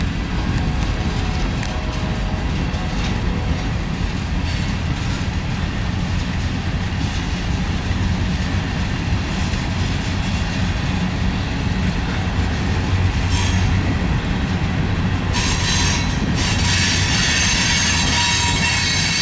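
Long Norfolk Southern manifest freight train's cars rolling past with a steady rumble of wheels on rail. About three-quarters of the way through, high-pitched wheel squeal sets in and continues.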